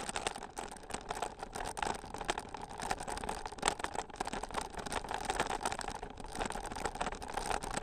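Bicycle rolling over a rough gravel trail: a continuous rattle and crunch made of many small irregular clicks from the tyres and frame.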